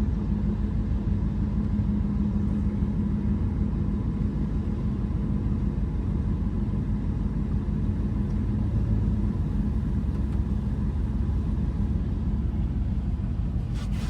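Steady low rumble and hum inside a truck cab in an in-bay automatic car wash, from the idling truck and the wash machinery. A louder hissing rush comes in near the end.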